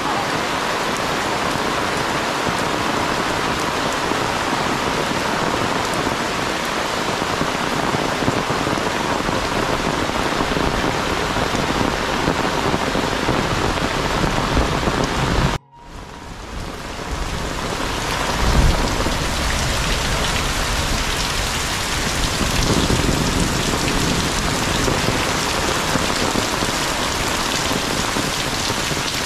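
Heavy tropical rain falling steadily on foliage and muddy ground. The sound cuts out abruptly about halfway through and fades back in, then a brief low rumble stands out a few seconds later.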